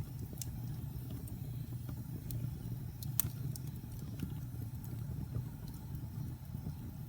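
Wood fire burning in a fireplace: a steady low rumble with scattered sharp crackles and pops, the loudest about three seconds in.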